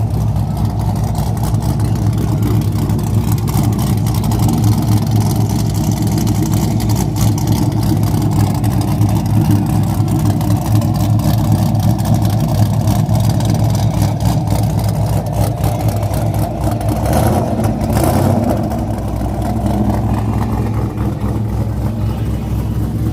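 Car engine running steadily at a low, even pitch, with a brief rush of noise about seventeen seconds in.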